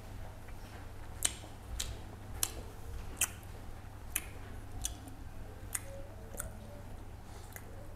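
Close-miked chewing of a mouthful of rice and fish, with sharp wet mouth clicks and smacks about once or twice a second.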